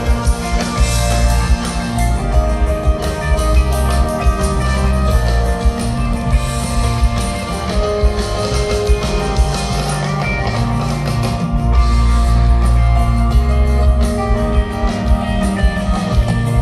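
Live rock band playing an instrumental jam, with guitar over a drum kit.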